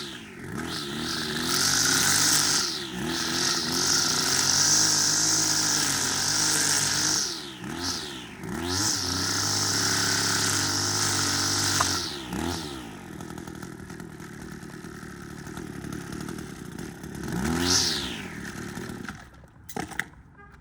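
Kawasaki KGT27C string trimmer's small two-stroke engine revved up to high speed several times, dropping back between runs, then idling, with one last short blip before it is shut off near the end. The trimmer is running after a tune-up.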